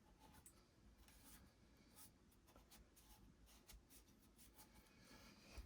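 Near silence with faint scattered ticks and rubbing of the motor being handled on the bench, and a slightly louder click near the end.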